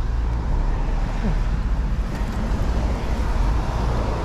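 Wind buffeting the microphone outdoors: a steady, unsteady-edged low rumble with a light hiss above it.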